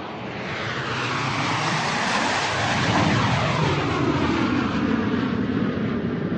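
Airplane flying over, its roar fading in and swelling to its loudest about three seconds in, with a sweeping, phasing quality as it passes overhead, then easing slightly.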